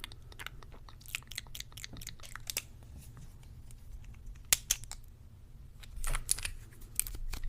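Close-miked ASMR clicks and soft taps, scattered and irregular. Louder clusters come about four and a half seconds in and again around six seconds.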